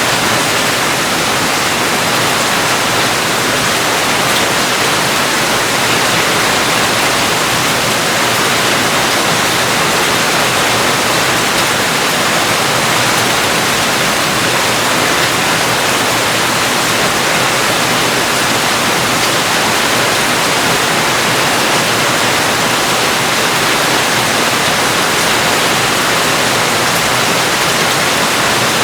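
Steady, heavy rain as a continuous even hiss, with no separate drops, thunder or other events standing out.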